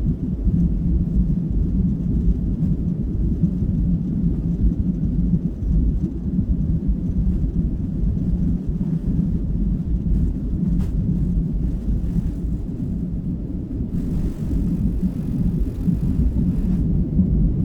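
Jet airliner engines at takeoff power, a steady low rumble, with a faint added hiss near the end.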